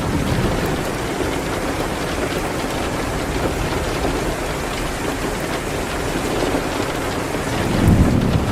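Steady rain falling. A low rumble swells briefly near the end.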